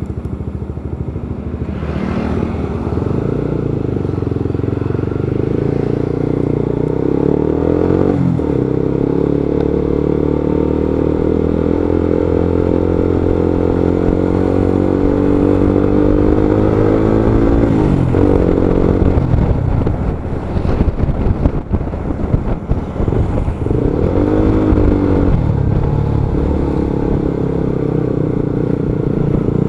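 Motorcycle engine running on the move, its pitch rising and falling several times as the rider speeds up and eases off. There is a choppier, uneven stretch about two-thirds of the way through.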